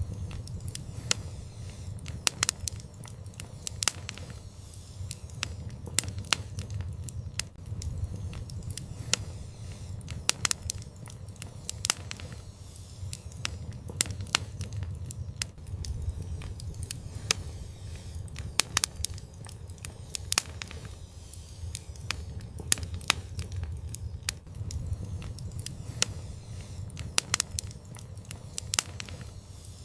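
Fire burning in an outdoor fireplace, crackling with frequent irregular sharp pops over a steady low rumble.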